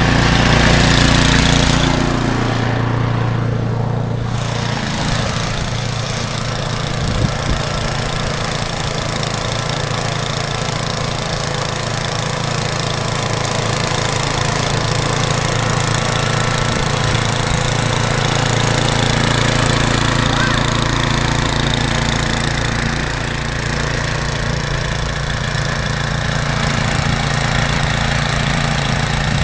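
An engine running steadily, its note dropping a little about two seconds in.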